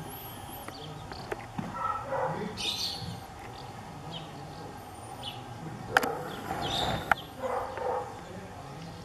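Outdoor ambience of small birds chirping and twittering on and off, with two sharp clicks about six and seven seconds in.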